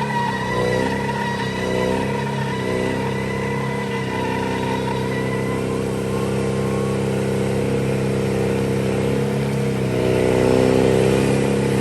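Truck engine running steadily, revved up briefly a few times, with the biggest rise near the end.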